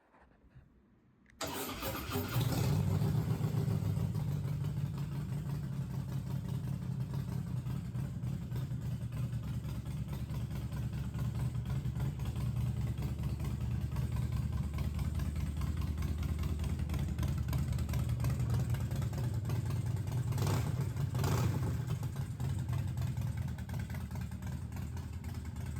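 Harley-Davidson Breakout's air-cooled Twin Cam V-twin, big-bored to 107 cubic inches with a Stage 2 tune and Vance & Hines Short Shots exhaust, starting about a second in and then idling steadily. Near the end there is a short burst of higher revs.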